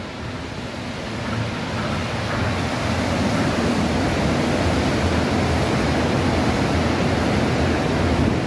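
A train running past close by: a steady rushing noise that builds over the first three seconds, then holds.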